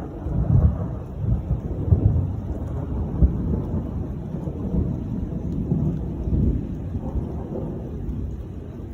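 Thunder rumbling and rolling, with several sharp loud peaks in the first three seconds, then dying away near the end.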